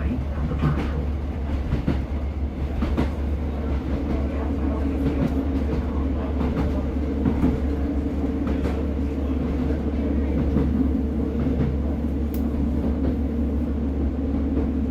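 Inside a Class 150 diesel multiple unit on the move: the steady low drone of its underfloor diesel engines and running gear, with irregular clicks and knocks from the wheels on the track.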